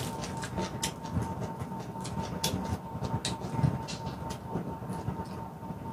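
Close-up chewing of raw vegetables, with irregular crisp crunches and wet mouth sounds over a low rumble. A faint steady tone runs underneath.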